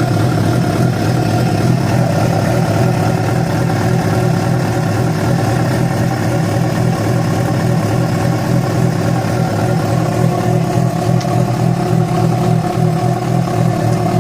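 Yamaha FZ6's inline-four engine running steadily at a constant speed, making the strange engine noise that began after the bike was ridden about 70 km on two cylinders because of a failed ignition coil connector.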